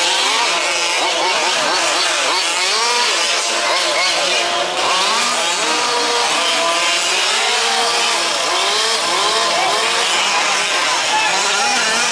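Several 1/5-scale two-stroke petrol RC off-road trucks racing together, their small engines revving up and down over one another in overlapping rising and falling whines.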